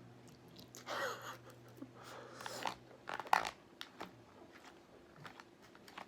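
Quiet eating sounds: chewing and mouth noises over a forkful of pasta, with a few sharp clicks. The loudest click comes a little over three seconds in.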